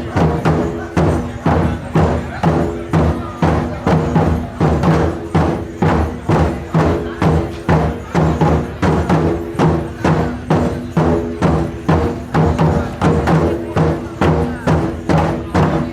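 Japanese taiko drums played in a steady, driving rhythm, about two loud strikes a second, with a low tone ringing on between the beats.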